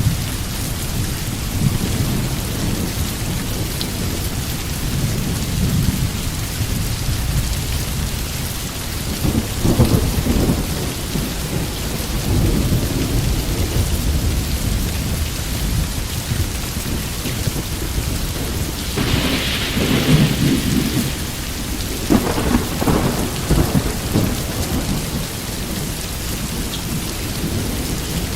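Steady rain with rolling thunder: low rumbles swell about ten seconds in, a louder, brighter peal comes a little before twenty seconds, and more rumbling follows.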